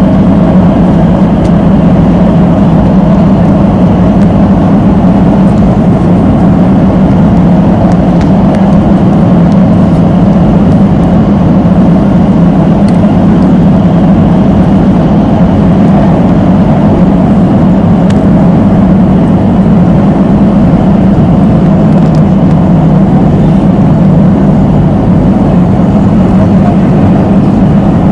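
MTR South Island Line S-Train running at steady speed through a tunnel, heard from inside the car: a loud, steady rumble of wheels on rail with motor hum, its pitch not changing.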